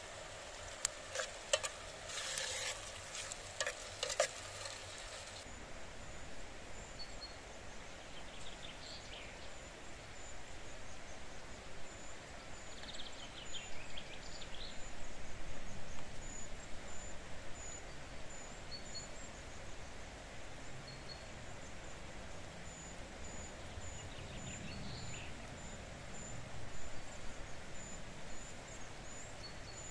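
Chopped tomatoes and onions sizzling in a steel pot over a campfire, with a spoon clinking and scraping against the pot for the first five seconds or so. After that a steady outdoor hiss with short high chirps repeating about once a second and a few soft clinks.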